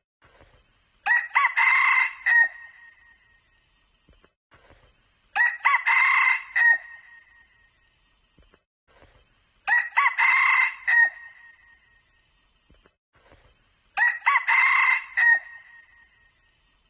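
Red junglefowl cock crowing four times, about every four seconds, each crow a short call of about a second and a half.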